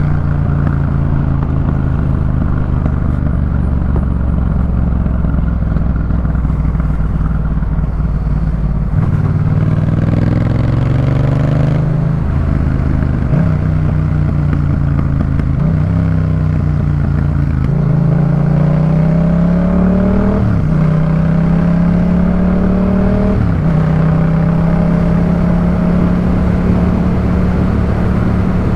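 Yamaha MT-07's 689 cc parallel-twin engine through a Jeskap K4 full exhaust, heard from the rider's seat. It cruises at a steady note for about nine seconds, then accelerates through several gears, the pitch climbing and dropping back at each upshift, and holds a steady higher note near the end.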